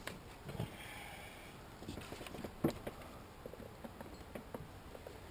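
Scattered light clicks and taps of hand tools and loose engine parts being handled, with one sharper click about two and a half seconds in.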